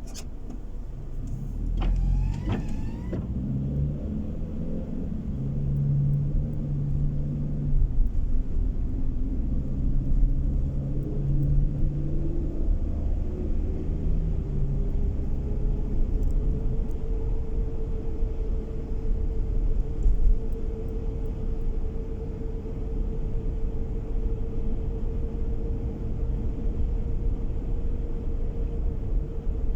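Car driving noise from inside the car: low engine and road rumble that grows louder as the car gets moving, with a hum that climbs in pitch and then holds steady. There is a click at the start and a brief rising sound about two seconds in.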